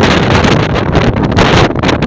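Blizzard wind buffeting the microphone, loud and continuous with uneven gusts.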